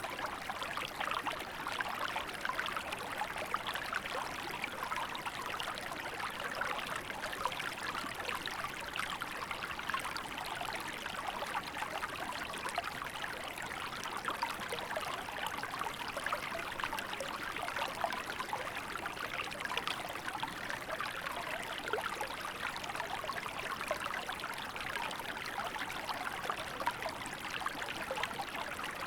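Small river flowing steadily over shallows, a continuous babbling and trickling of running water.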